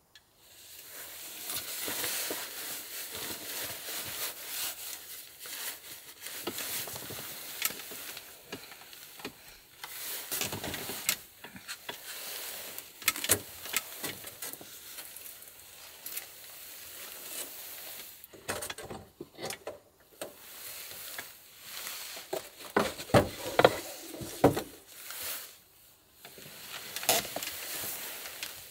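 Food sizzling as it fries in a pan, with scattered clicks and knocks of cookware and utensils.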